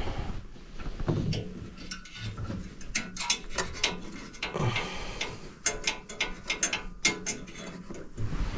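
Irregular metallic clicks and light knocks of a new flame sensor being slid into place in a gas furnace's burner assembly and fastened with hand tools, in small clusters over a faint low hum.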